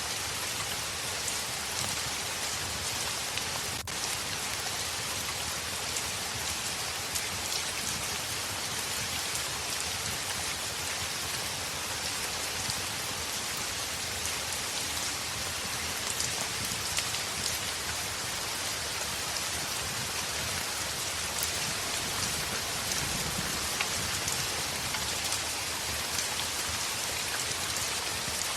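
Heavy rain falling on a window: a steady, even hiss with scattered small taps of drops.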